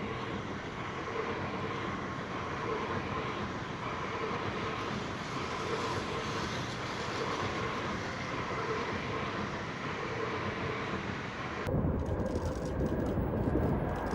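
A train running, a steady rush with a faint held tone. Near the end it cuts suddenly to a louder, deeper rumble.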